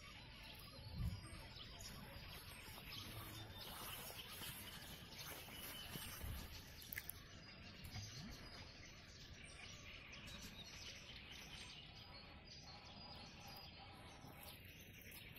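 Faint birdsong and chirping over a quiet outdoor background, with a couple of dull low thumps, one about a second in and another around six seconds.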